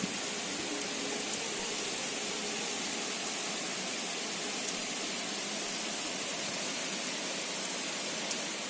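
A steady hiss of noise with a few faint scattered ticks, fading out at the very end.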